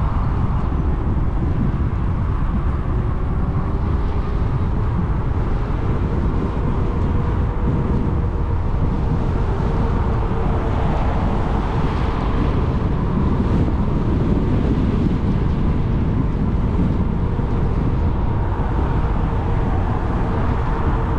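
Steady wind rumble on the microphone while riding an e-bike, with a faint steady whine running under it.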